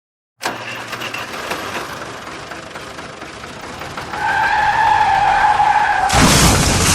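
A vehicle skid sound effect: a noisy rush with a steady tyre squeal coming in about four seconds in, then a loud crash-like burst near the end.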